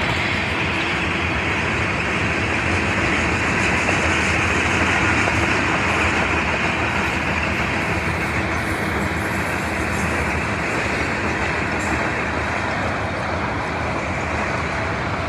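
Freight train cars passing fast and close: steel wheels rolling over the rails in a steady, loud rush of wheel and rail noise.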